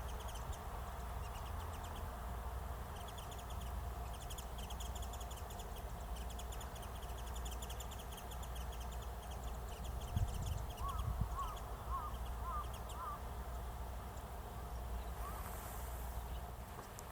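Outdoor wetland ambience with a steady low rumble, repeated runs of rapid high ticking, and a short series of wavering bird calls a little past the middle.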